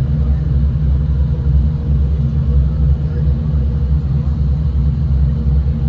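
V/Line diesel train under way, heard from inside the carriage: a steady low rumble of engine and wheels on rail with a constant low drone.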